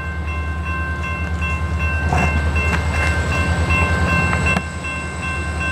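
Freight train's diesel locomotives running past, a steady low engine drone with a couple of short knocks from the wheels crossing the track.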